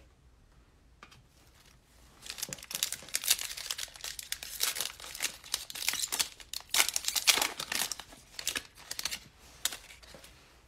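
Plastic wrapper of a football trading card pack crinkling as it is torn open and crumpled. The crackle starts about two seconds in and stops shortly before the end.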